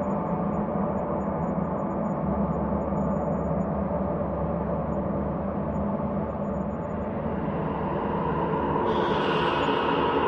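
Ambient space drone: a steady, low, layered hum of many held tones. It grows brighter and a little louder near the end, when a higher hiss comes in.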